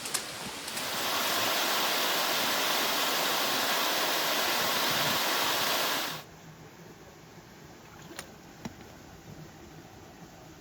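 Steady rush of flowing creek water in the Left Fork through the Subway canyon. About six seconds in it drops abruptly to a much quieter faint hiss, with two light clicks.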